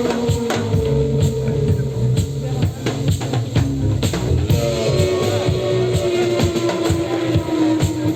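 Live trance band music led by a drum kit, with a bass line and long held melodic notes over the beat; the drums break into a busy run of hits around three seconds in.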